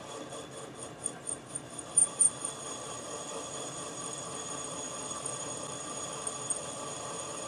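Metal lathe cutter taking a cut on a small pin down to a square shoulder: a steady, high-pitched cutting whine that starts suddenly. It pulses about four times a second for the first couple of seconds, with two sharper ticks about two seconds in.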